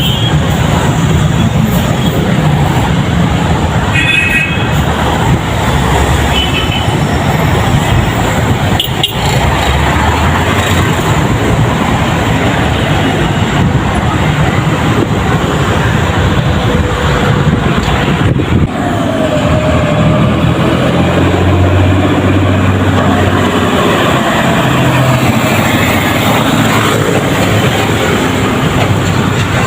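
Road traffic with heavy vehicles passing: a loud, continuous engine and tyre rumble that rises and falls as they go by.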